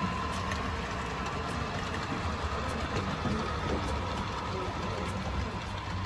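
O gauge model train running on the track: a steady low rumble of wheels on rail with a constant hum from the motor, and faint light ticks.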